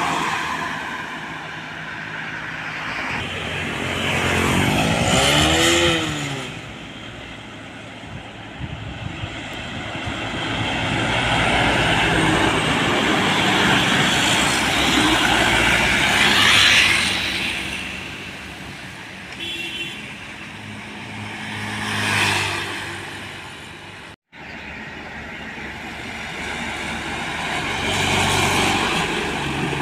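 Heavy diesel trucks and buses passing one after another on a road, their engines swelling as each one comes by and fading as it goes, one with a clear rise and fall in engine pitch. There is a brief cut near the end.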